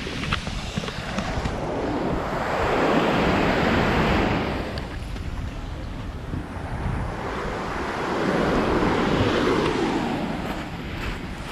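Waves breaking and washing up on the shore twice, each surge building and fading over a few seconds, with wind buffeting the microphone as a steady low rumble.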